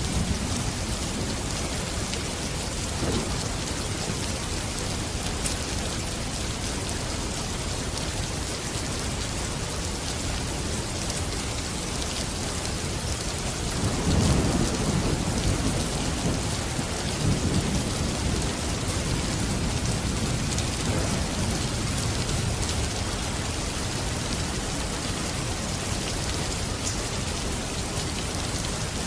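Steady rain falling, with thunder rumbling low about halfway through and rolling on for several seconds.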